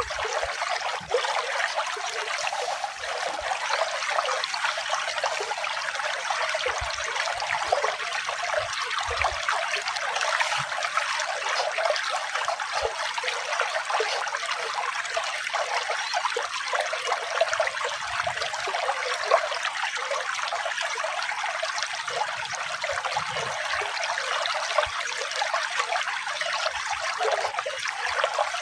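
Running water trickling and splashing steadily, a continuous even rush with no low rumble.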